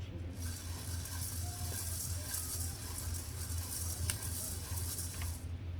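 Coffee beans being roasted, rattling and hissing steadily as they are stirred in the roaster. The hiss cuts off suddenly shortly before the end, over a constant low hum.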